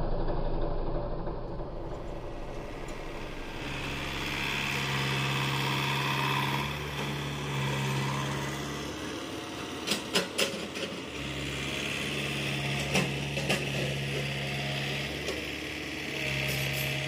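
Engine of earth-moving machinery running steadily, its note strengthening and easing as it works. About ten seconds in there is a quick cluster of sharp metallic clanks, and a couple more follow a few seconds later.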